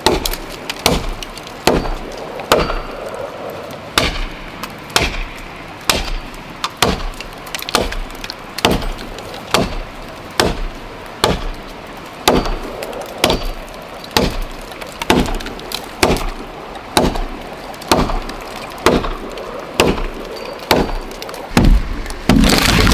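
Wood being chopped with steady strokes, about one a second, each a sharp crack. A louder, longer crash comes near the end.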